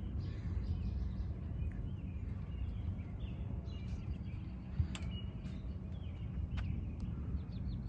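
Outdoor thunderstorm ambience: a steady low rumble with birds chirping now and then, and a couple of sharp ticks past the middle.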